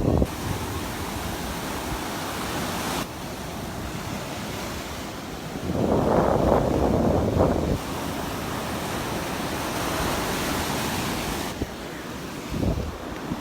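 Gulf of Mexico surf washing onto the beach, with wind buffeting the microphone. A louder surge comes about six seconds in and lasts about two seconds.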